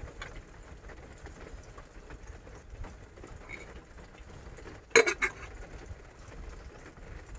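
Small hard objects being handled: scattered light clinks and knocks, with a sharp clatter of three quick clinks about five seconds in.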